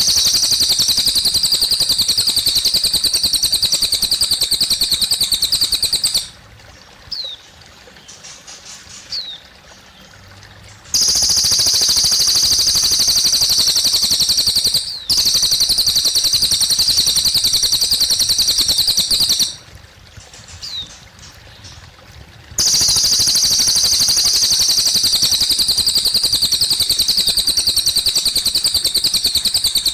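Cililin bird singing long, very fast, high-pitched trills that each last several seconds and stop abruptly, three times, with a few short falling chirps in the pauses. Water trickles faintly underneath.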